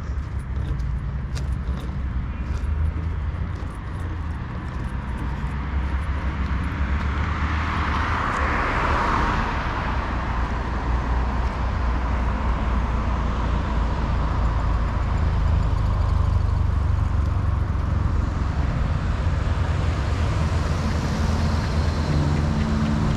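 Car engine and tyre noise: a steady low rumble, with a vehicle passing that swells about eight seconds in and then fades.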